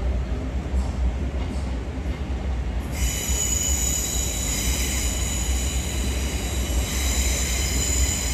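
Passenger train moving through the station with a low, steady rumble. From about three seconds in, a high metallic squeal from the wheels joins it, held as several steady high tones.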